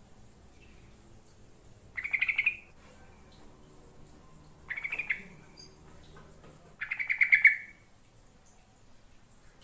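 Yellow-vented bulbul (trucukan) calling: three short, rapid chattering phrases a couple of seconds apart, the last the longest and loudest.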